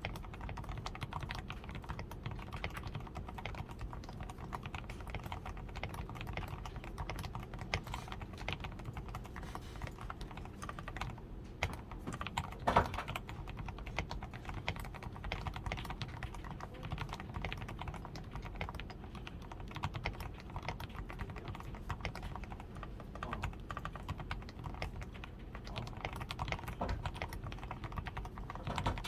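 Steady, continuous typing on a DAREU A87 Pro mechanical keyboard that is fully lubed with Krytox 105, has a PCB tape mod and XDA keycaps. Keystrokes follow one another rapidly, with one noticeably louder stroke about halfway through.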